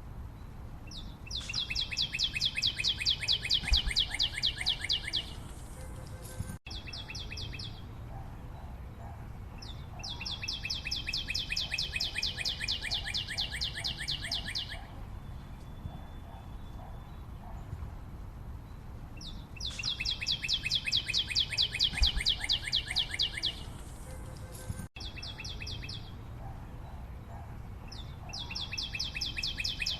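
A bird singing long, rapid trills of evenly repeated high notes. Each trill lasts about four to five seconds, with shorter trills between them, and they recur every few seconds.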